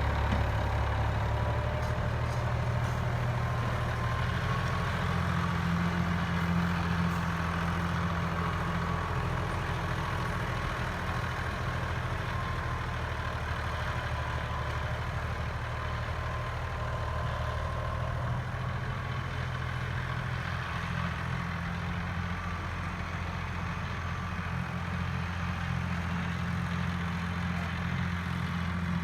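John Deere 5210 tractor's diesel engine running steadily, with a faint whine above the low engine note.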